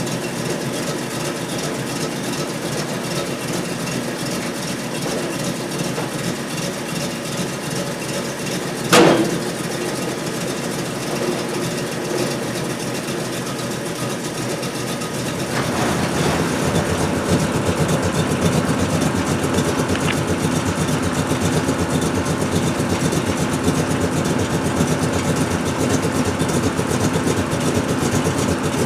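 A vehicle engine running steadily, with a short loud burst about nine seconds in. About halfway through, the engine sound becomes louder and fuller.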